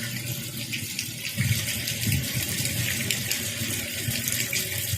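Steady rain falling and splashing, with fine irregular pattering.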